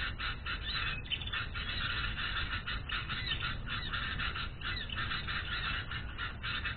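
Dense, unbroken chatter of raspy bird calls, many short notes with the odd chirp, running on at a steady level.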